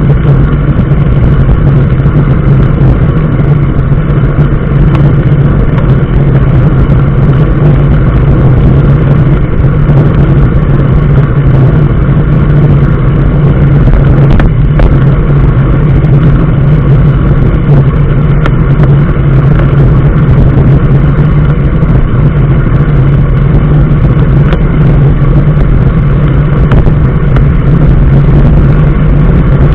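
Motor vehicle travelling at a steady pace: a constant engine hum and road noise, loud and unchanging throughout.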